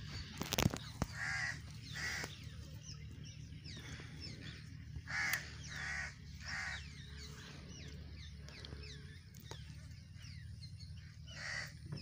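Birds calling: a pair of short calls, then three in a row about five seconds in, and one more near the end, over faint chirping of small birds. Two sharp clicks about half a second in.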